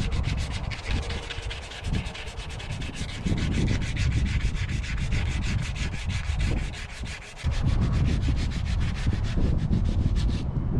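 Rust being scraped and sanded off the steel body of a Mitsubishi L300 van in rapid, even strokes that stop shortly before the end. Wind rumbles on the microphone underneath.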